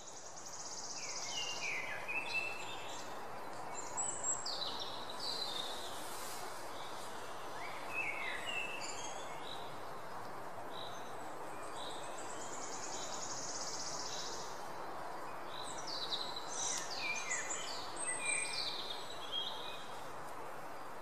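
Several birds chirping and calling over a steady outdoor hiss, with a buzzy high trill twice.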